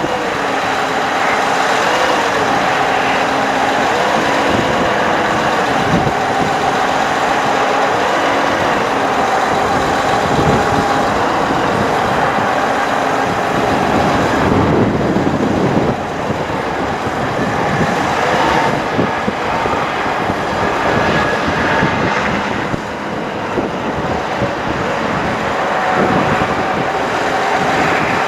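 2009 Sterling Bullet 4x4 bucket truck being driven: steady engine and road noise with a faint whine running through it.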